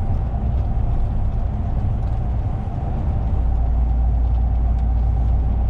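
Lorry engine and running noise heard inside the cab: a steady deep rumble with a faint constant whine above it.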